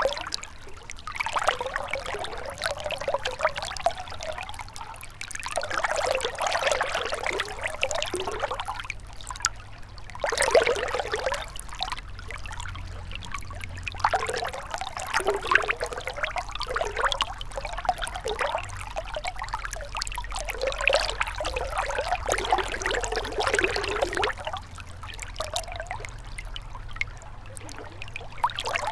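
A gentle river trickling and gurgling, swelling and easing in uneven surges over a steady low rumble, with a quieter spell near the end.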